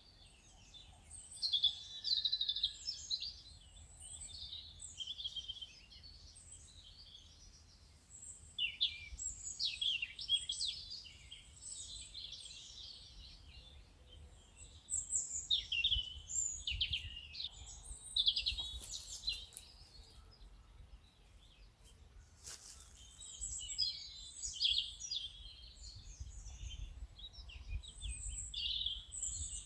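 Birdsong from several small birds chirping and trilling in quick overlapping bursts, over a faint low rumble of outdoor ambience.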